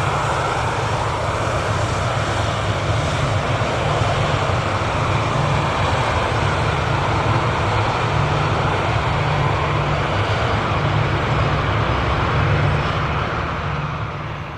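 Jet airliner engines running loud and steady, a low rumble under a broad roar, fading near the end.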